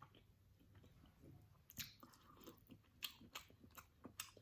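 Faint chewing of king crab meat, with a few sharp mouth clicks and smacks between the soft chewing noise.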